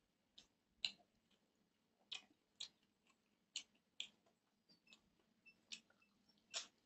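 Close-miked eating by hand: chewing a mouthful of rice and duck curry, heard as a string of short, wet clicks and lip smacks at an irregular pace, about ten in all.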